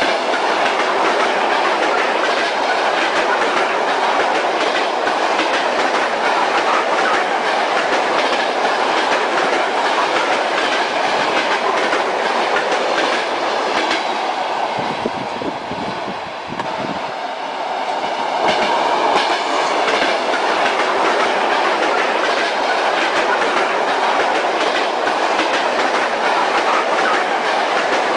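Train wheels clacking over rail joints under a steady rolling rumble as the train runs along the track. Around the middle it turns briefly quieter and duller, then returns.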